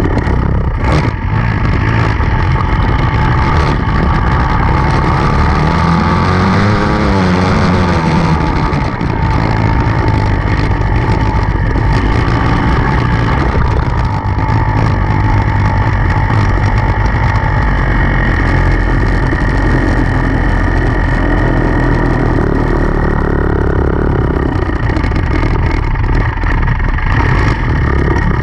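Dirt bike engine running hard and continuously, the revs rising and falling as the throttle is worked.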